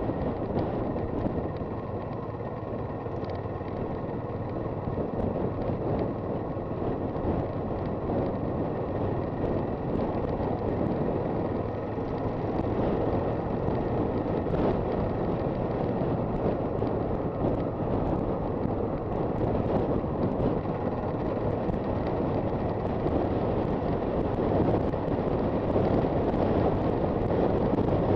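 Honda FT400 single-cylinder motorcycle riding along the road, its engine mixed with steady wind rushing over the microphone, growing a little louder toward the end.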